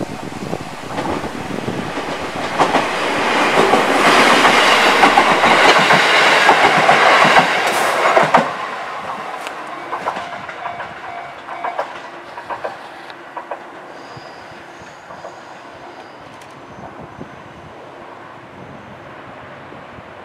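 JR Central 373-series electric limited express train running past on the rails, its wheels clacking over the rail joints. The sound swells to its loudest for a few seconds and cuts off suddenly about eight seconds in, after which the train is heard much more faintly with scattered clicks.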